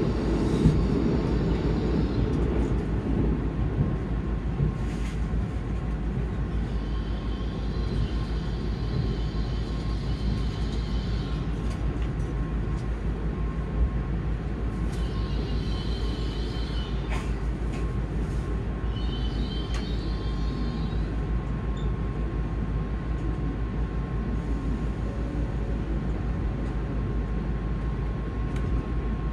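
Cabin noise inside an N700S Shinkansen passenger car on the move: a steady low rumble from the wheels and running gear, with a few faint clicks and faint high tones that come and go.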